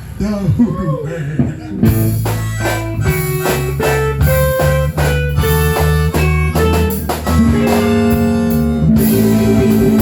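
Live electric blues band playing: electric guitar over bass and drums, the full band coming in about two seconds in.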